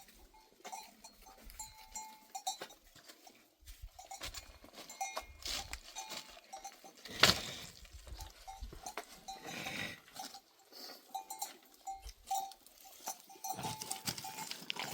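Small bells on livestock clinking on and off, with a single sharp knock about seven seconds in.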